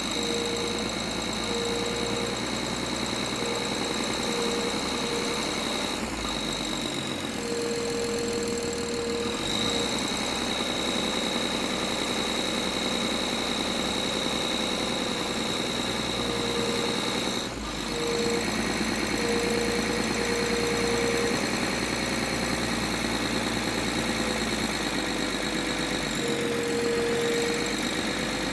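BMW N53 3.0-litre straight-six engine running steadily with a rattle, dipping briefly in level about two-thirds of the way through.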